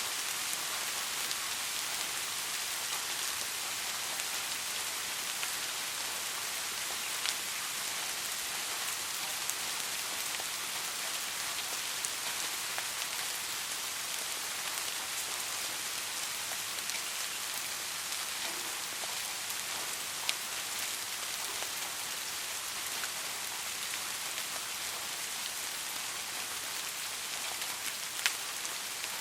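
Steady soft rain, an even hiss of rainfall with scattered individual drops ticking on a surface, one slightly louder drop near the end.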